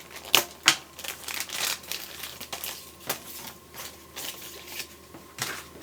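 A packet of arrow wraps being opened and handled: packaging crinkling, with irregular sharp crackles and clicks.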